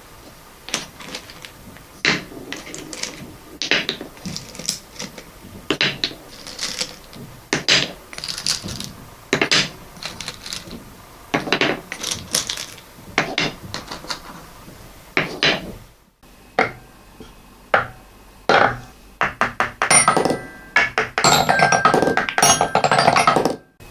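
Small hard objects such as beads, marbles and balls clicking and clattering in irregular knocks, each with a short ring. After a cut about sixteen seconds in, the rattling becomes denser, with a few brief ringing tones.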